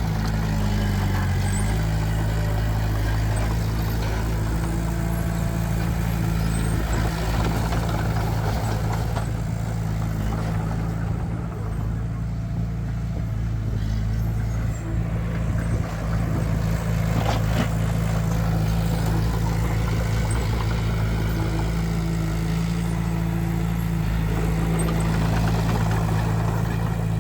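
Heavy construction machine's diesel engine running steadily, with a low, even engine note.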